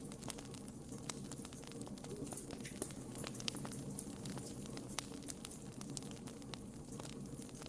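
Wood fire in a fireplace crackling: irregular sharp pops and snaps over a low steady rumble.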